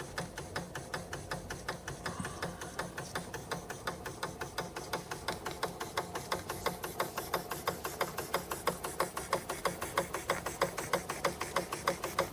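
Märklin 4149/9 toy live-steam engine running steadily on steam, with a rapid, even beat of about four strokes a second that grows louder toward the end.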